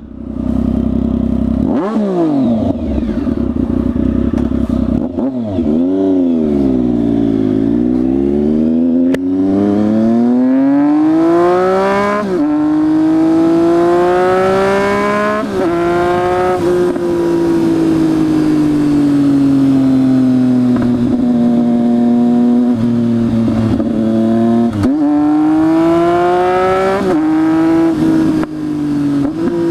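2014 Triumph Speed Triple 1050's inline three-cylinder engine running with the exhaust cans removed, leaving only the open 2-1 mid pipe, heard from inside the rider's helmet. The engine slows and picks up again, then revs rise in long pulls with sudden drops at each upshift, holds steady for several seconds, and climbs again with more shifts near the end.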